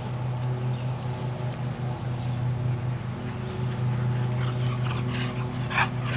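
A dog whimpering and panting, mostly near the end, over a steady low motor drone.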